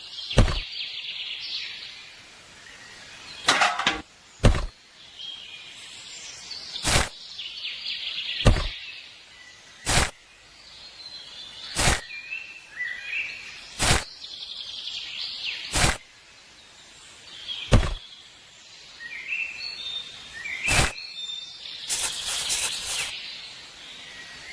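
A series of sharp knocks, roughly one every two seconds, with a quick cluster near the end and short high chirps in between.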